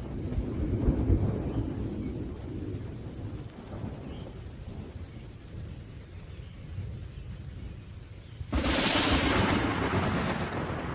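Thunderstorm: deep rolling thunder rumbling over steady rain, swelling a second in and dying away, then a sudden loud crash of thunder about eight and a half seconds in.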